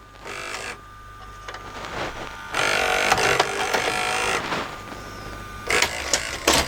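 An LG VCR/DVD combo's cassette loading mechanism runs through its eject cycle: the loading motor and gear train whir as the tape unthreads and the cassette carriage lifts out, with a few sharp clicks near the end. This shows the mechanism, which would not eject before, ejecting normally now that it has been realigned.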